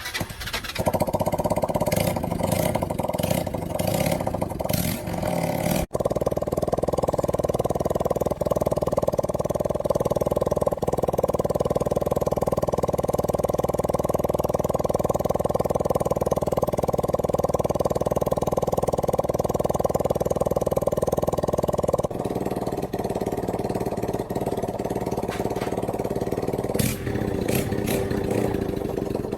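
Win 100cc motorbike engine running after its cylinder and clutch overhaul. It starts suddenly and runs steadily, settles to a lower, quieter note about 22 seconds in, and cuts off at the end.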